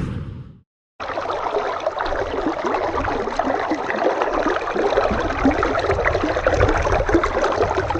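Babbling stream: water running and bubbling steadily, coming in about a second in, just after a whoosh sound effect dies away with a brief silence.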